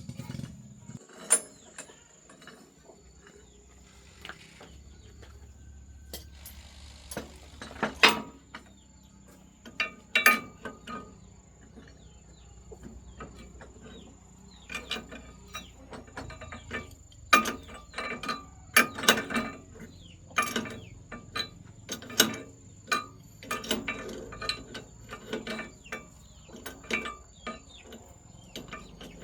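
Metal hand tools clinking and knocking against machine parts during a repair, in irregular sharp strikes with a short ring, coming thicker in the second half.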